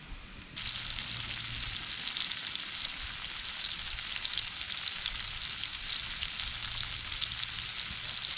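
Sliced peppers frying in hot oil in a cast iron pan over a campfire: a steady sizzle with fine crackling that comes in suddenly about half a second in.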